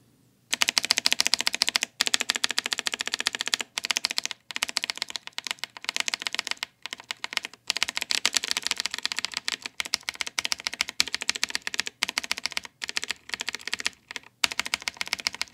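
Mechanical keyboard with blue switches, some of them lubed with Vaseline and hand cream to soften their click, typed on fast in continuous runs of key clicks with a few short pauses.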